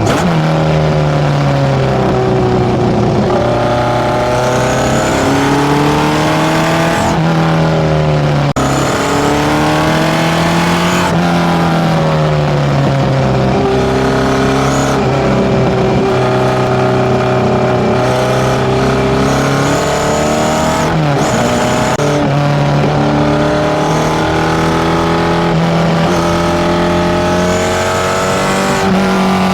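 Tuned Datsun A15 inline-four with FCR41 carburettors running through a one-off 54 mm stainless exhaust, its pitch climbing and falling smoothly several times as the revs go up and down, with a few abrupt drops.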